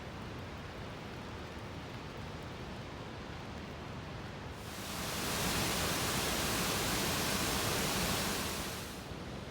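Steady hiss of a rainy outdoor scene, with water noise throughout. About halfway through, a louder, brighter hiss swells in, holds for about four seconds, then falls away.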